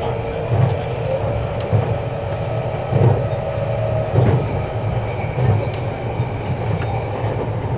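A JR 253-series electric train running along the track, heard from inside the passenger car: a steady low rumble with a thump of the wheels roughly every second.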